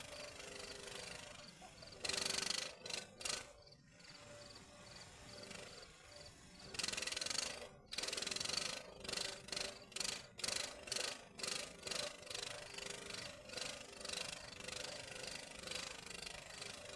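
Electric arc welding on steel rebar: crackling hiss in two longer runs, then a series of short bursts about two a second, over a steady electrical hum.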